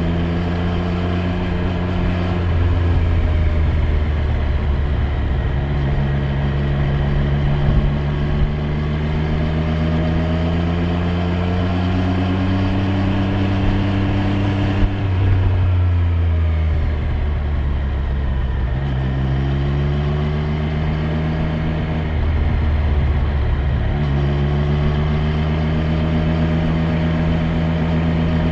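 Triumph Street Triple 765 R's 765 cc inline three-cylinder engine running on the move, its pitch climbing slowly under throttle, falling off around the middle, then climbing again and holding steady, with a few brief breaks at gear changes.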